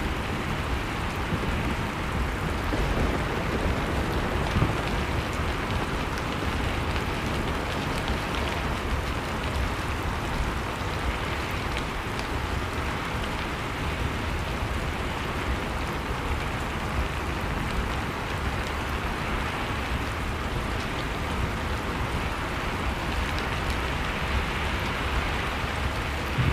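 Blizzard wind blowing steadily, with a fireplace fire crackling in faint scattered ticks over it.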